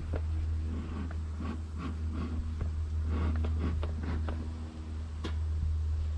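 Irregular knocks, scrapes and rattles of beehive parts being handled, with one sharp click about five seconds in, over a steady low rumble.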